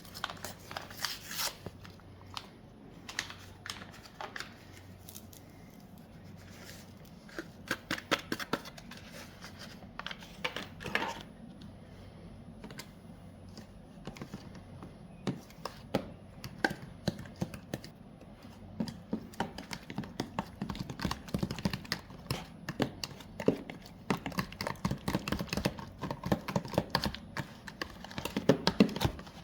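Irregular light clicks and taps, scattered at first and growing denser and faster in the last several seconds.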